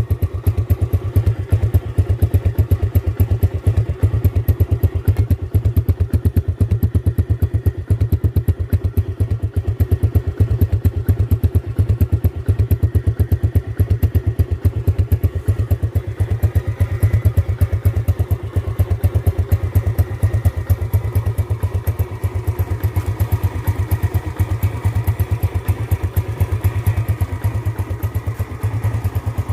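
2008 Yamaha Jupiter Z motorcycle's single-cylinder four-stroke engine running steadily with an even, rapid pulsing exhaust beat and no revving.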